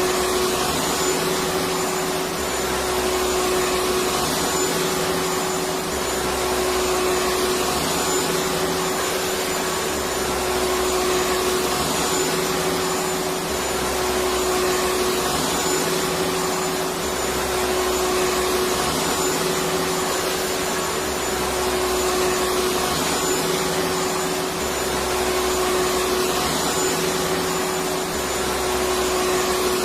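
Electric vacuum cleaner running continuously: a steady motor hum with one held tone over rushing air, and a low rumble that swells and fades every few seconds.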